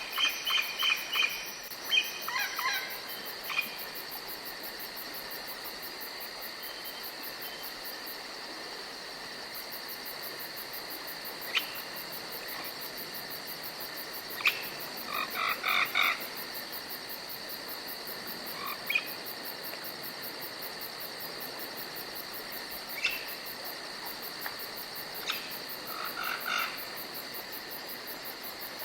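Forest ambience dominated by insects: a steady high chirring drone with a very fast high trill running throughout. Short bursts of rapid chirping calls break in now and then, clearest about halfway through and again near the end.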